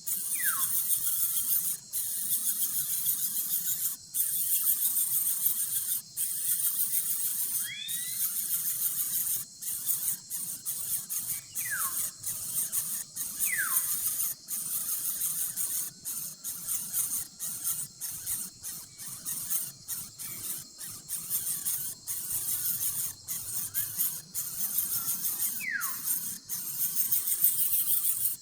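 Birds: a steady high-pitched hissing chorus, broken by short gaps about every two seconds, with a few quick falling whistles over it.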